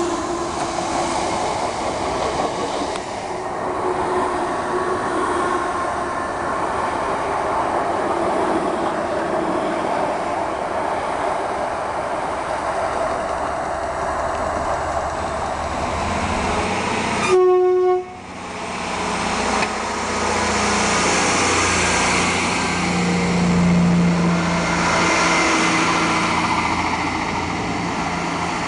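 Passenger trains running past with rumble and wheel noise. About two-thirds of the way through comes one short, loud train horn blast that cuts off sharply. After it, a diesel multiple unit's engine runs steadily close by.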